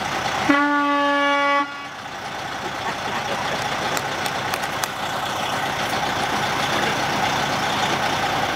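Moving truck's horn sounding once, a steady honk a little over a second long, then the truck's engine and road noise running steadily.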